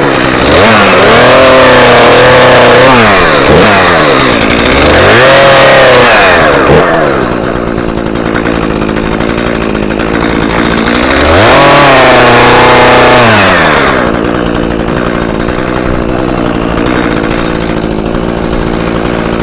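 Gasoline chainsaw revved up hard three times, near the start, around five seconds in and around twelve seconds in. Between the revs and through the second half it drops back to a steady lower running speed.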